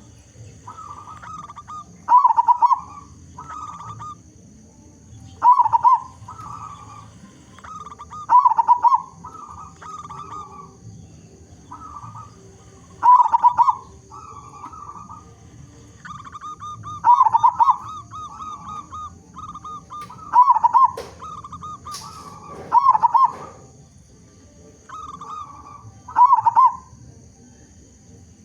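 Zebra dove (perkutut) cooing in full voice: about eight loud multi-note coo phrases, roughly every three seconds, with softer coos between them.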